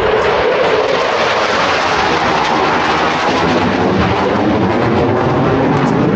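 Jet engine noise from Blue Angels F/A-18 Super Hornets in flight, loud and steady throughout.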